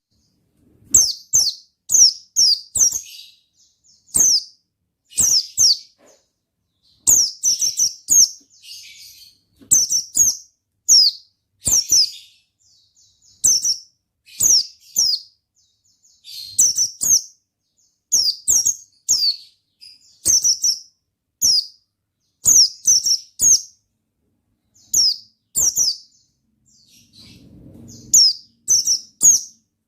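White-eye (pleci) singing vigorously: quick runs of high, falling chirps, several in a row, broken by short pauses.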